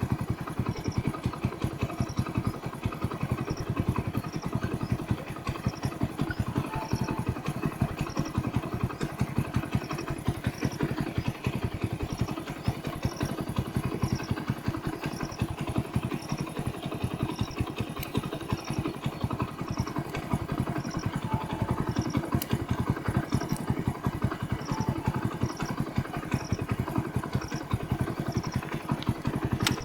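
A motor or engine running steadily with a rapid pulsing beat, and a faint high pip repeating about twice a second.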